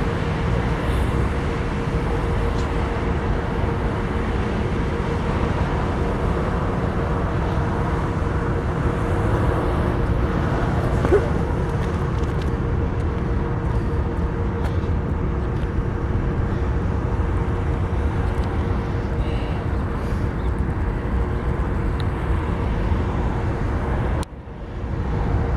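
BNSF freight train rolling past, a steady rumble with a faint steady whine over it. The sound dips sharply for a moment near the end.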